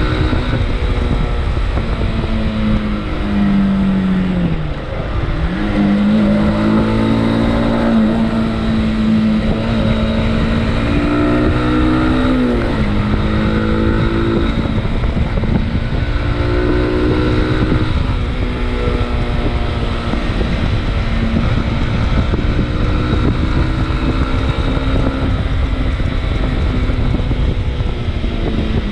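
Motorcycle engine running under way, mostly at a steady note, with its pitch dropping and picking up again about five seconds in and near the end, over steady wind and road noise.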